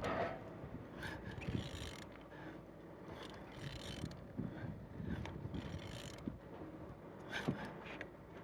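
Car engine being turned over by hand: irregular clicks and mechanical knocks from the turning internals. It turns freely, the sign of an engine that is not seized.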